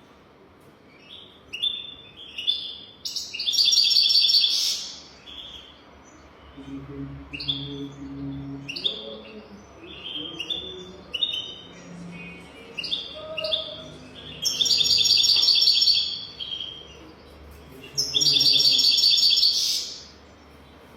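European goldfinch singing: a string of short, quick chirps, broken three times by a louder, longer rapid trill (about three seconds in, and again near fifteen and eighteen seconds).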